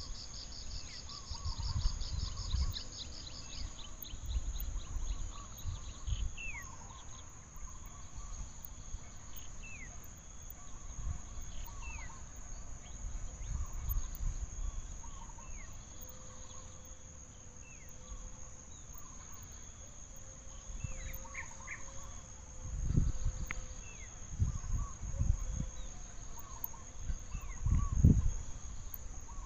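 Forest ambience: a steady high drone of insects, with a fast pulsing trill in the first few seconds and short falling bird whistles repeated every second or two. Low rumbling bursts, loudest near the end, break in from time to time.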